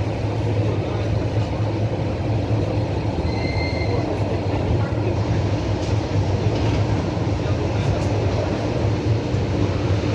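Passenger train running on the rails: a steady rumble of wheels and carriage, with a brief high squeal about three seconds in.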